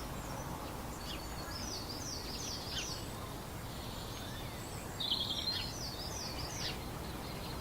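A small songbird singing two short phrases of rapid, repeated chirps over a steady low background rumble of outdoor ambience.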